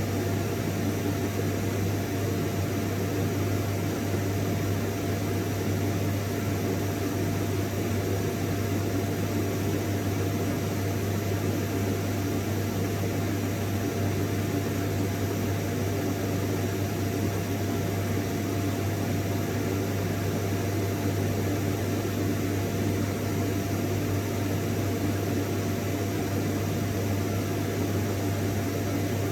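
Vacuum cleaner running steadily, with a low motor hum under an even rushing noise and a faint steady whine above.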